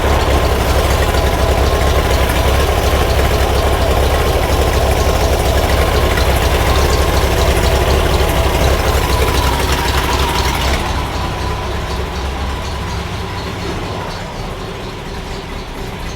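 Freshly rebuilt air-cooled flat-four engine of a vintage VW Bus idling steadily on its first test run after a distributor timing fix. The owner judges it to be running rich on a carburetor whose mixture screw won't adjust. The sound grows quieter over the last five seconds or so.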